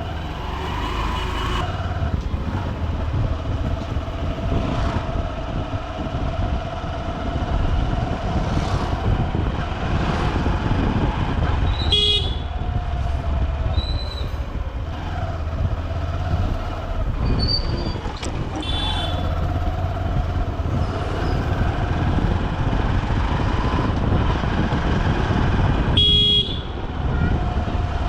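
Honda SP125 single-cylinder commuter motorcycle engine running under way in dense city traffic, with a steady low rumble. Several short vehicle horn toots sound through it, the loudest about halfway through and again near the end.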